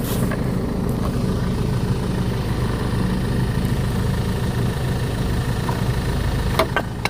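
Car engine idling with a steady, pulsing rattle after a repair. The owner suspects the freshly done exhaust has a hole, or a loose brake shoe. A couple of short clicks come near the end.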